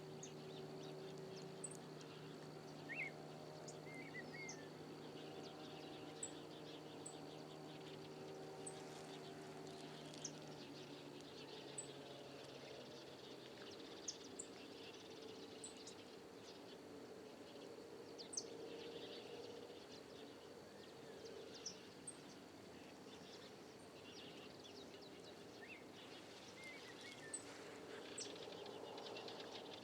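Quiet riverside outdoor ambience: scattered short bird chirps and a couple of brief trilled calls over a faint steady high tone, with a low steady hum that fades away about halfway through.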